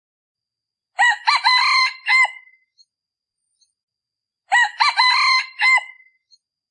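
A male decoy junglefowl crowing twice, about three and a half seconds apart, each a short crow. It is the call used to lure wild junglefowl to a trap.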